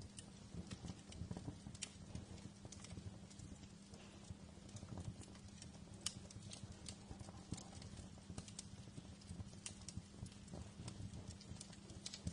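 Fireplace fire crackling: irregular sharp pops and snaps, faint, over a steady low rumble.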